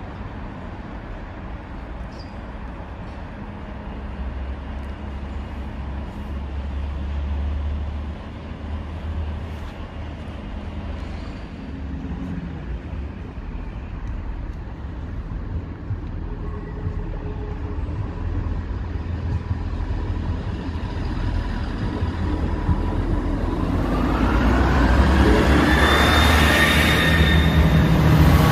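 Class 158 diesel multiple unit approaching and running through the level crossing, growing louder over the last several seconds with engine and wheel noise and a few steady whining tones. Before it arrives there is a steady low rumble.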